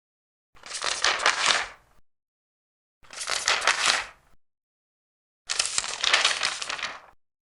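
Large paper pages being turned, three times, each turn a rustle of about a second and a half, with silence between them.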